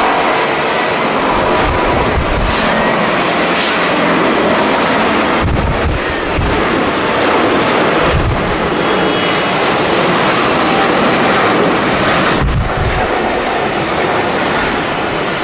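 Jet airliner engines running loud and steady, with gusts of strong wind buffeting the microphone several times.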